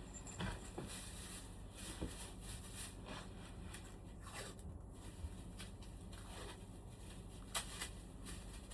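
Faint scattered clicks and scrapes, as of parts or tools being handled, over a low steady hum; the sharpest click comes near the end.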